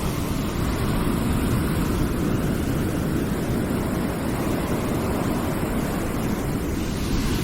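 Continuous background noise track: an even, deep rushing hiss, heavier in the low end than the highs, with no breaks or changes.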